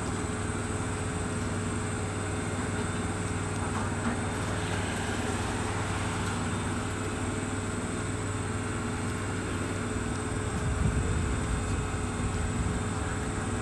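Steady machine hum with several fixed tones, like a running motor, with a low rumble swelling near the end.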